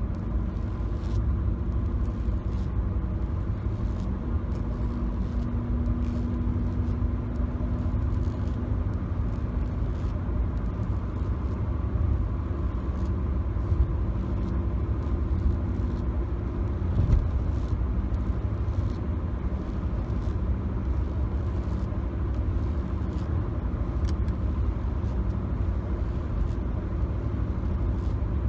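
Road noise inside a moving car's cabin: a steady low rumble from the engine and tyres with a faint steady hum. Light, scattered clicks of fingers tapping on the car's interior sit faintly on top.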